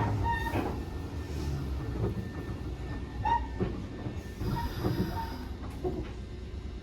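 Nankai 6000 series electric train running with a low rumble of wheels on rail that grows gradually quieter as it slows. Brief high squeals of wheels or brakes come about half a second in and again about three seconds in.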